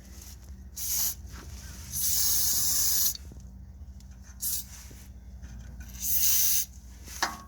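Aerosol can of lubricant spraying in four hissing bursts, the second the longest at about a second. It is sprayed onto rubber exhaust hangers to loosen them.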